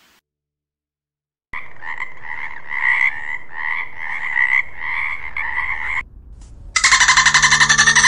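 Tree frog calling: a run of pulsed croaks, about two a second. After a brief pause it gives a louder, much faster rattling trill near the end.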